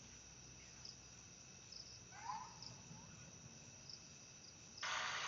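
Faint crickets chirping over a quiet background, with a brief rising call about two seconds in. Near the end a loud, steady hiss cuts in abruptly.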